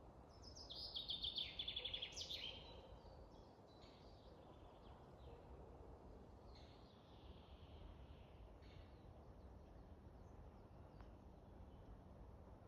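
Wild songbirds: one loud phrase of rapid high notes about half a second in, lasting about two seconds, then fainter scattered calls, over a low steady hiss.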